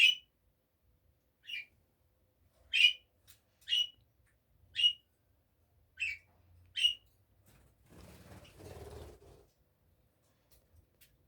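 A small pet parrot gives about seven short, sharp chirps a second or so apart, followed by a softer, muffled noise about eight seconds in.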